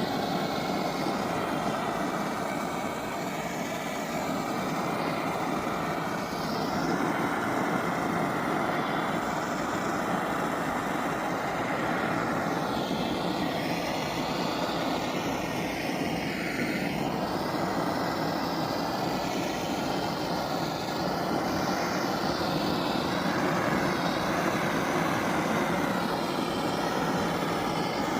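Electric sander running steadily on birch plywood, a continuous even motor-and-abrasion noise.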